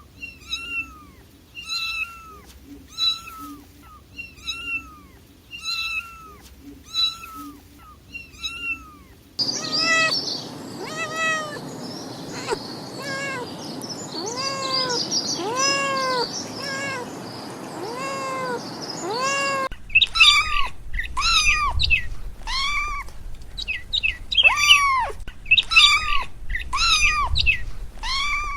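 Kitten meowing over and over, short high mews about one a second, each rising then falling in pitch.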